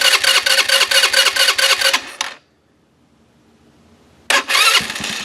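Chinese 150cc ATV engine turning over on its electric starter in a fast, even pulse for about two and a half seconds, then stopping. After a short pause it cranks again and catches near the end, settling into a steady idle now that the new carburettor is fuelling it.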